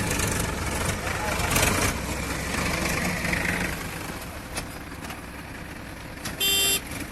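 JCB 3DX backhoe loader's diesel engine running, louder for the first two seconds and then settling. A loud half-second horn blast comes near the end.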